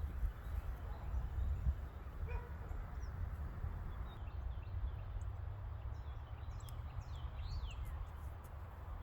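Birds chirping, with a run of quick high chirps from about four to eight seconds in, over a steady low rumble.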